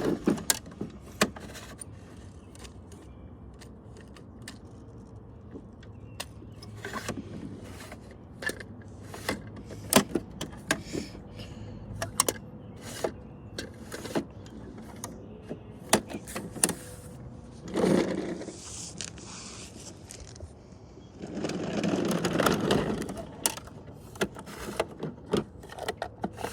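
Toy garbage trucks being handled, making scattered sharp plastic clicks and knocks. The toys make a short louder sound about two-thirds of the way in and a longer one a few seconds later.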